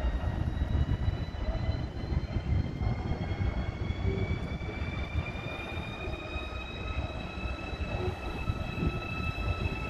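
ICE electric train moving slowly along the platform: a whine in several tones that climb slowly in pitch, over a steady low rumble of the train on the track.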